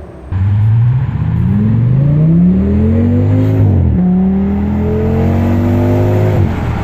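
Audi S8's V10 engine accelerating hard. The pitch climbs for about three seconds, drops at a gear change, then climbs again before cutting off near the end.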